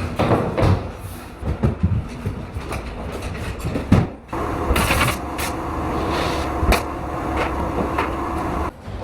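Building-site work noise: a run of irregular knocks and thumps, then a steadier rolling rumble with a faint hum that cuts off abruptly near the end.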